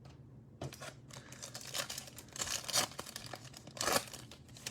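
Plastic cellophane wrapper of a trading-card pack being torn open and crinkled by hand: a run of irregular crackling rustles, loudest past the middle and again about four seconds in.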